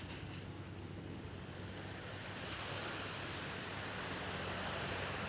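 Sea waves washing onto a sandy beach, the surf swelling louder from about halfway through, over a steady low hum.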